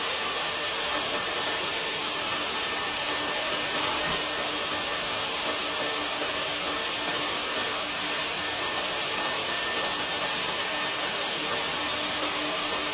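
Powerful vacuum running steadily, pulling air and lint through a dryer vent duct: an even rushing hiss with a faint steady hum and a high tone.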